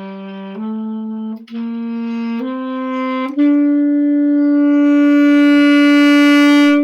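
Saxophone playing a soft, slurred phrase of short notes that climb step by step, with a brief break before the third note. It ends on a long held note that swells steadily louder in a crescendo and then stops cleanly.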